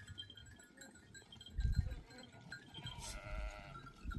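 Sheep and goats of a flock bleating, with one wavering bleat about three seconds in. A low thump about a second and a half in.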